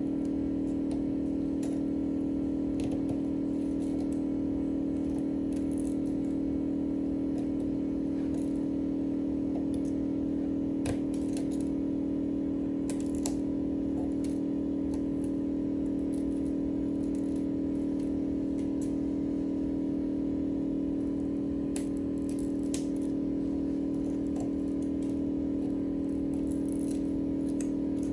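A steady low machine hum throughout, with scattered small clicks and scrapes of hand tools working on a phone.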